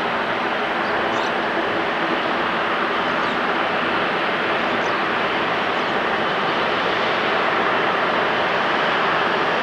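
Jet engines of a widebody airliner running with a steady, even noise that holds at the same level.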